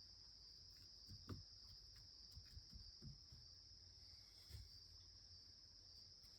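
Near silence with a faint, steady, high-pitched insect chorus and a few soft low thumps.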